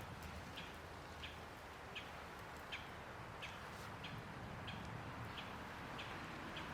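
A bird repeating a single short, high chirp over and over, about one every two-thirds of a second, over faint outdoor background noise.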